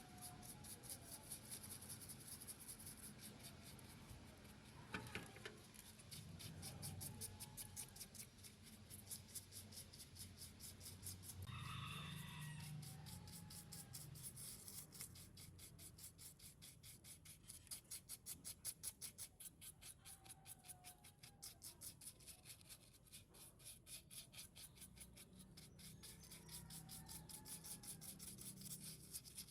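Faint, rapid, even rubbing strokes by hand, with a few brief, faint bird calls, the clearest about twelve seconds in.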